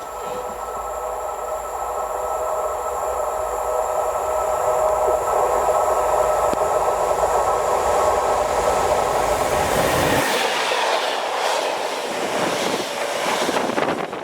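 Train passing close by: a steady hum with sustained tones that grows louder, then in the last few seconds a rougher rushing noise with repeated clacks of wheels over the rails.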